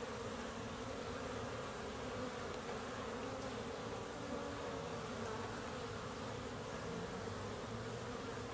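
Many honeybees flying in and out at a hive entrance: a steady buzzing hum of overlapping wingbeats. This is busy afternoon flight at the hive, which the beekeeper takes for cleansing and orientation flights.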